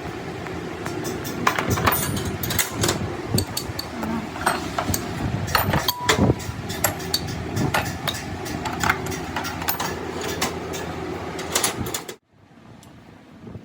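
Metal-on-metal repair work: frequent sharp clanks and knocks over a steady mechanical din, which cuts off abruptly near the end, leaving a quieter hum.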